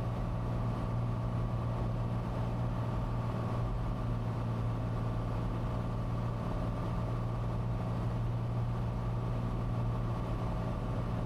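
Cessna 182T Skylane's six-cylinder Lycoming engine and propeller, a steady unchanging drone heard on short final to landing.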